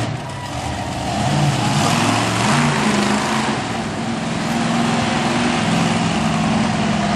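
Monster truck engine running hard and revving, its pitch stepping up and down several times over a loud rushing noise.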